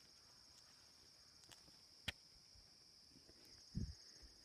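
Faint, steady high-pitched chirring of insects, with one sharp click about two seconds in and a short low thump near the end.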